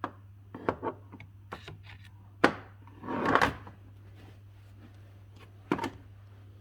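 Several sharp knocks and clicks, a brief rushing hiss about three seconds in, and a second pair of knocks near the end, over a steady low hum.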